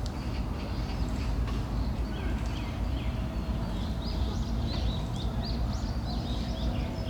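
Small birds chirping: quick series of short, high calls, few at first and thick from about halfway through, over a steady low rumble.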